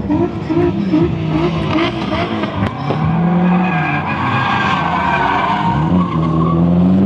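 Drift car engine revving, the revs wavering and rising and falling, with tyres squealing as the car slides.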